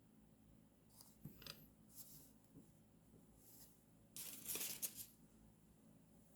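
Paper being handled during journal decorating: soft rustles and small clicks, with a louder papery burst of about a second, like tearing or cutting, about four seconds in.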